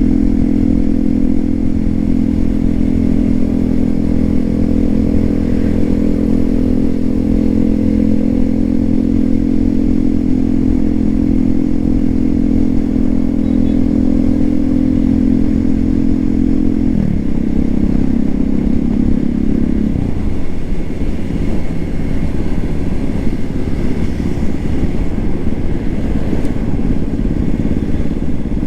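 Hero Xpulse 200 4V's single-cylinder engine running through an SC Projector aftermarket exhaust, holding a steady pitch. About two-thirds through, the pitch dips briefly, and shortly after the note turns rougher and less even.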